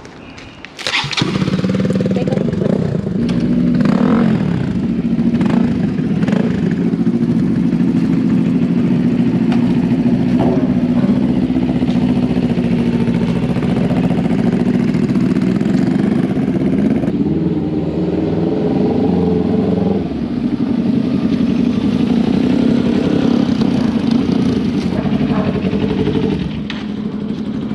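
Kawasaki Ninja 400 parallel-twin engine starting about a second in and running steadily, easing off near the end.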